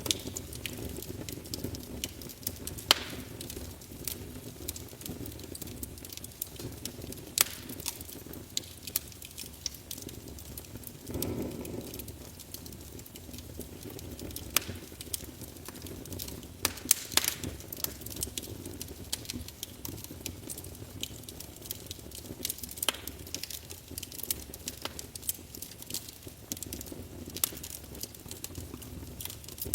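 Wood fire burning in a fireplace: irregular sharp crackles and pops from the burning logs over a steady low rush of flame, with a brief swell in the flame noise about eleven seconds in.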